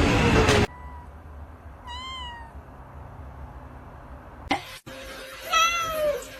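Loud steady noise cutting off abruptly, then a domestic cat meowing twice: a short rising-and-falling meow, and after a sharp knock, a longer meow falling in pitch.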